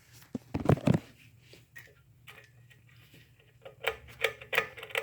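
Craftmade patio ceiling fan's pull chain clicking: a brief clatter about half a second in, then sharp, regular ticks about three a second from near the end.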